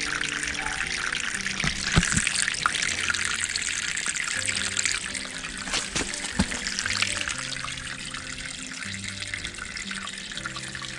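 Water from a natural spring running and splashing steadily down a wooden channel, with soft background music underneath.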